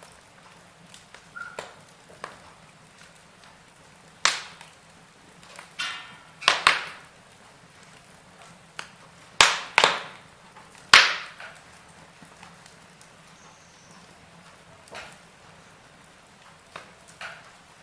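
Wood fire burning in a fireplace, crackling with irregular sharp snaps and pops over a faint steady hiss; the loudest pops come in a cluster through the middle.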